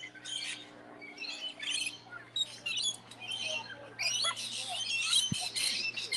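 Birds giving many short, high calls in quick, irregular succession, busier and louder from about the middle on.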